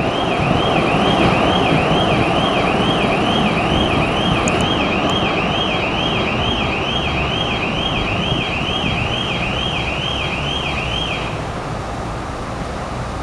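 Narrow-gauge passenger train behind a TU7A diesel locomotive rolling away along the track, with a steady rumble and a high squeal that rises and falls about twice a second and stops near the end as the train rounds the curve out of sight.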